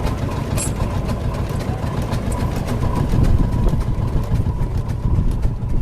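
Vintage engine idling steadily with an even, rapid firing beat, running fairly quietly.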